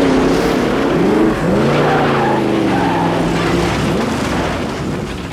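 Car engine revving, its pitch swooping up and down, with tyres skidding.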